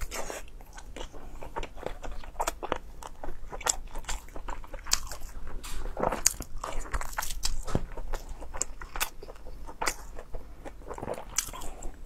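Close-miked biting and chewing of a soft sausage, with many small wet mouth clicks and smacks coming irregularly, several a second.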